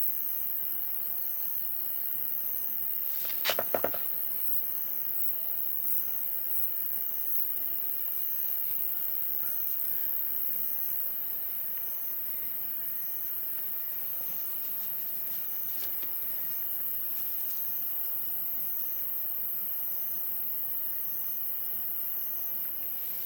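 Insects chirping outdoors in an even, repeating high-pitched pulse over a steady background hiss, with a quick cluster of sharp cracks or clicks about three and a half seconds in.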